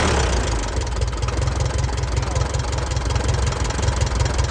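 1939 Piper J-3 Cub's engine and propeller idling just after starting. It is a little louder in the first second, then settles into a steady, even beat.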